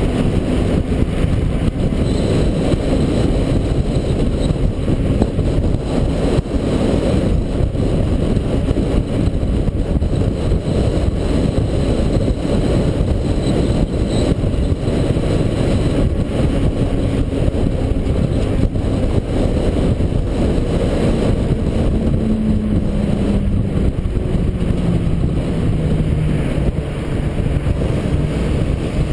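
International 4300 dump truck driving, its diesel engine running steadily under heavy road rumble and wind on the microphone. Engine pitch falls in the last third as the truck slows.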